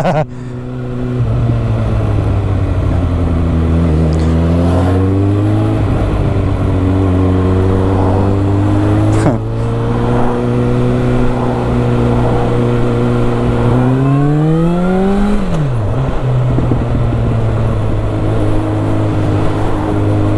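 Suzuki GSX650F's inline-four engine running on the road, its pitch shifting with the throttle, dipping and climbing about four seconds in and rising steeply before dropping sharply about fifteen seconds in, over wind noise.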